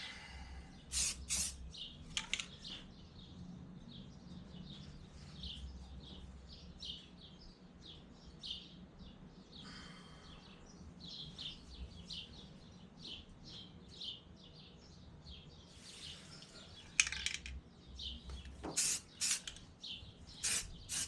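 Birds chirping in quick short calls throughout, over a steady low hum, with a few louder knocks near the start and again about three-quarters of the way in.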